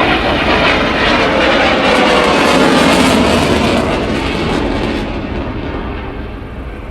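Airplane flying past, its engine noise swelling to a peak and then fading as it moves away, the high hiss dropping out about five seconds in.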